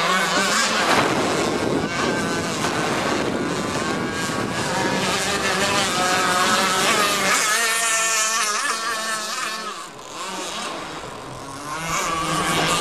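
Twin Zenoah G26PUM two-stroke gas engines of a 72-inch Capricorn RC boat running at speed, their pitch rising and falling with the throttle. About ten seconds in they go quieter, then come back louder near the end.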